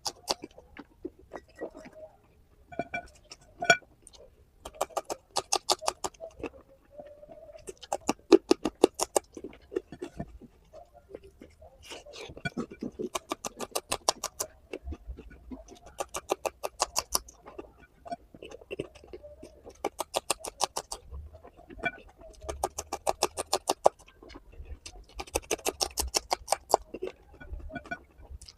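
Close-miked open-mouth chewing of rice and curry: runs of quick, wet smacking clicks, each lasting about a second, repeating every few seconds with short pauses between mouthfuls.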